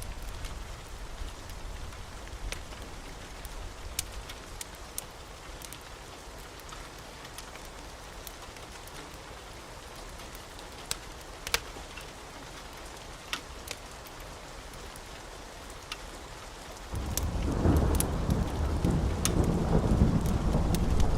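Wood fire crackling: sharp pops scattered over a steady low hiss. About seventeen seconds in, a much louder low rumble sets in and keeps going.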